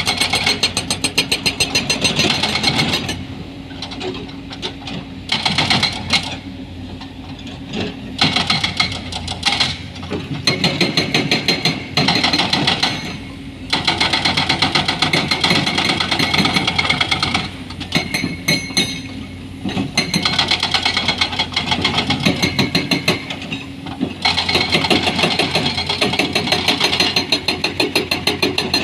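Excavator-mounted hydraulic breaker hammering rock in rapid, even blows, in runs of a few seconds broken by short pauses, over the steady running of the excavator's diesel engine.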